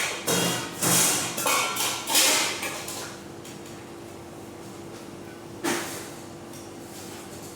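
A quick run of knocks and scrapes in the first two and a half seconds, then a steady low hum with one more knock near the end.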